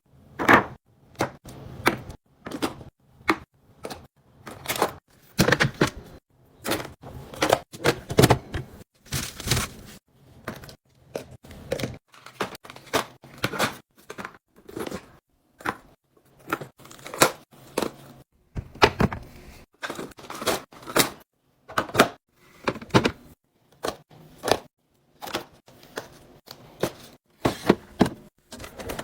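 Food containers and packaging being handled and set down while a fridge is restocked: a long run of separate clicks, taps and clunks, a few each second, with short quiet gaps between them.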